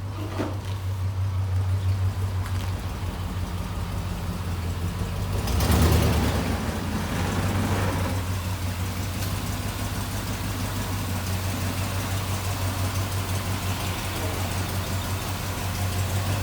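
An engine idling steadily with a low, pulsing hum, with a brief louder surge about six seconds in.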